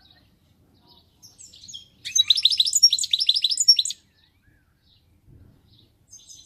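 Pied European goldfinch singing: a few soft high notes, then a burst of rapid, high twittering song lasting about two seconds, starting up again right at the end.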